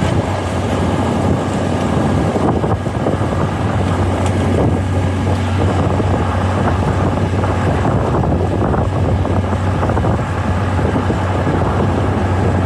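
Wind buffeting a phone's microphone: a loud, steady rumble with no distinct events.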